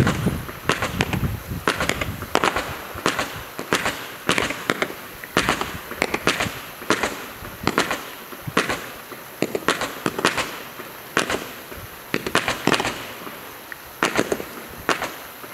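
Multi-shot firework firing shot after shot: a steady run of sharp pops about two a second, with crackle between them.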